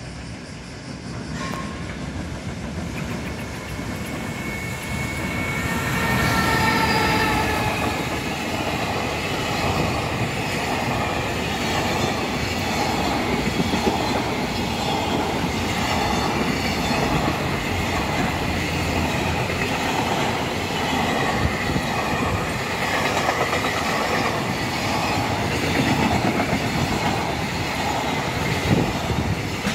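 JR Freight EF210 electric locomotive and its train of container flatcars passing close by, growing louder over the first few seconds. As the locomotive goes by, about five to eight seconds in, there is a whine with several steady tones. After that the flatcars roll past with a steady, rhythmic clickety-clack of wheels over rail joints and some wheel squeal.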